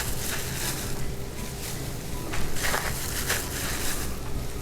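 Panko-breaded chicken bites frying in hot oil, sizzling and crackling, with irregular louder pops.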